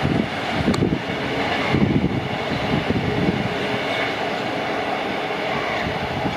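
Express passenger train running past at speed: a steady loud rumble of wheels on the rails with irregular low knocks and clatter, and one sharp click about three-quarters of a second in.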